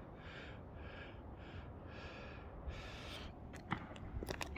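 A man breathing hard and fast, quick breaths in and out about two a second: he is out of breath from pedalling a bike hard. A few sharp clicks near the end.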